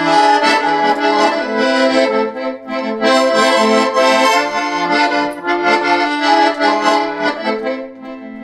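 Accordion playing an instrumental introduction to a song: sustained chords and melody over changing bass notes, getting quieter near the end.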